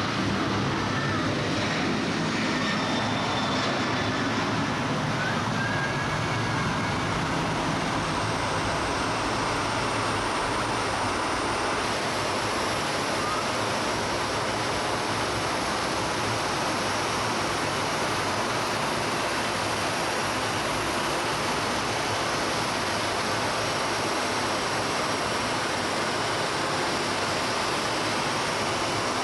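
Jet airliner engines running with a steady rushing noise and a thin high whine that rises and then holds about a third of the way in.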